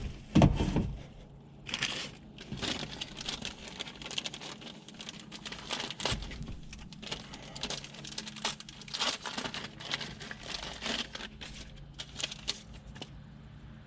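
Plastic packaging crinkling and rustling in irregular bursts as parts are handled, with a low thump about half a second in.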